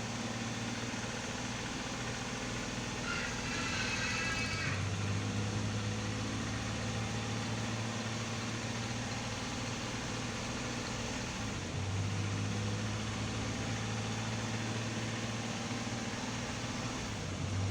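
Daihatsu Xenia 1000's three-cylinder engine idling steadily, its hum growing a little stronger about five seconds in and again near twelve seconds. A brief high warbling sound comes in about three seconds in.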